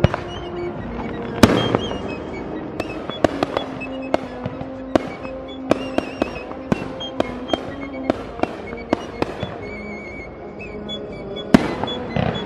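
Fireworks going off: a loud bang about a second and a half in, then a quick string of sharp reports, about two a second, from about three to nine seconds in, and more loud bangs near the end. Music plays under them.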